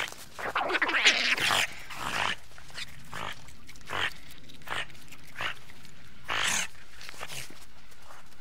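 An animal calling with harsh, noisy cries: a loud run of calls in the first two seconds, then short single calls about once a second.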